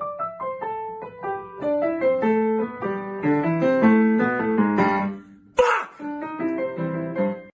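Piano music: many quick notes in a running melody over lower chords. About five and a half seconds in, a short noisy burst breaks in, then the piano carries on and stops abruptly.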